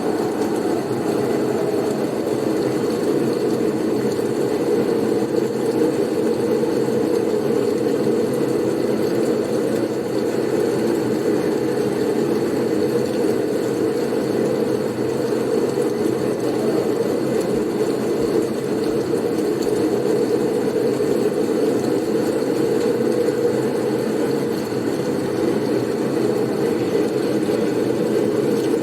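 Blizzard wind blowing steadily: a low, even rush of noise.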